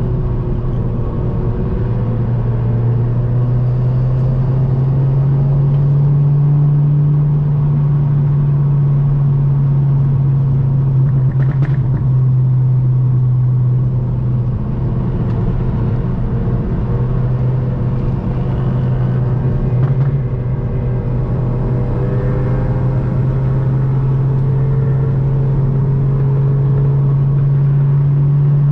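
Modified VW Golf GTI Mk7's turbocharged four-cylinder engine, with catless downpipe and track exhaust, droning steadily at a held cruising speed. Its pitch drifts slightly up and down over road noise.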